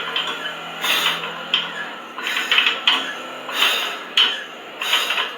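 Repeated short clattering of hard objects, roughly two a second and somewhat irregular.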